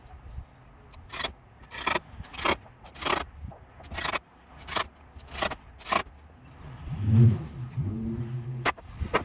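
A steady run of about nine sharp knocks, roughly one every two-thirds of a second, during work laying deck boards, followed near the end by a louder low sound with a wavering pitch.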